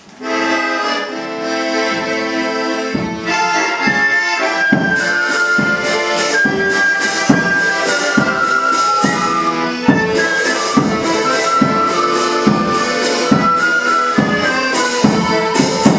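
Instrumental song introduction played on accordion. It opens with held chords, then about three seconds in a steady rhythmic accompaniment starts under the melody.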